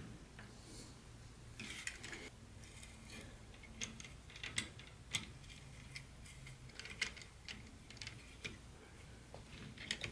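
Small plastic model train pieces being handled: scattered light clicks and taps at an irregular pace, with a brief rustle about two seconds in.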